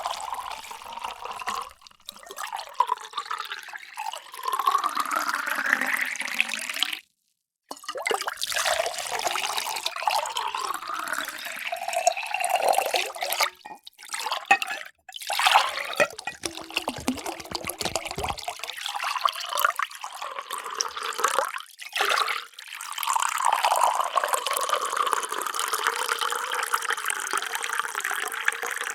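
Water poured into a series of vessels one after another, with short breaks between pours. In each pour the tone rises in pitch as the vessel fills.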